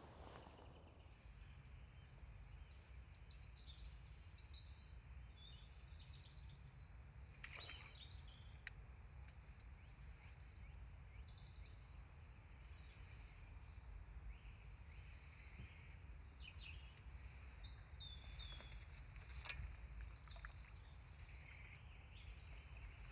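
Songbirds singing in quick phrases of short, high, downward-sliding notes over a faint, steady low outdoor rumble, with a few faint clicks.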